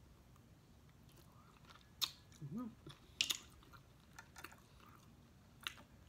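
Close-up eating sounds: snow crab meat being chewed, with a few sharp clicks and smacks, the loudest about two and three seconds in, and a short hummed "mm" between them.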